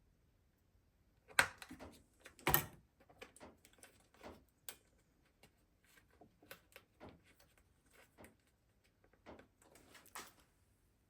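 Irregular clicks and knocks of the plastic parts of a Flymo hover mower being handled and taken apart, with two louder knocks about one and a half and two and a half seconds in.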